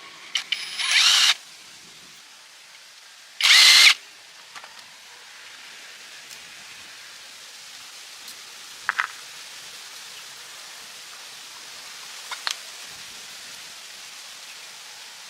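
Power tool run in two short bursts, the second the loudest and about half a second long, followed later by a couple of light clicks over a steady hiss.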